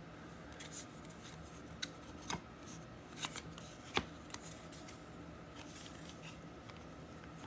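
Faint, scattered clicks and light handling noises of trading card boxes and packs being moved about, with one louder tap about four seconds in.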